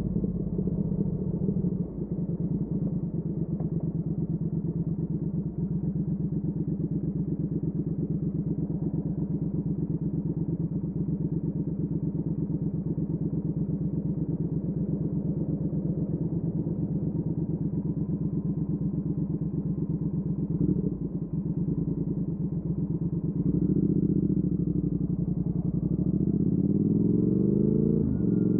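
Triumph Speed Twin 1200's parallel-twin engine through a Weslake Shorty Pro exhaust, pulsing evenly at a steady cruise. There is a brief dip about three quarters of the way in, then the engine picks up and revs rise near the end.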